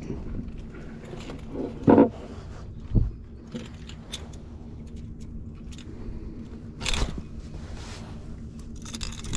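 Knocks and scrapes of a freshly netted redfish being handled on a small fishing boat, with a short, loud, pitched sound about two seconds in and thumps around three and seven seconds, over a steady low hum.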